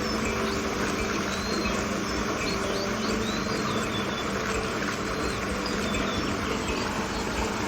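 Small birds chirping in short, rising and falling notes over a steady rushing noise with a low, even hum underneath.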